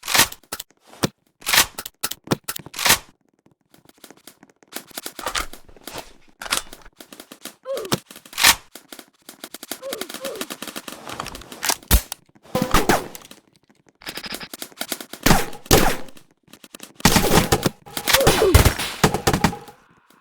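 Airsoft guns firing: scattered single shots and short bursts, growing denser and louder in the last few seconds.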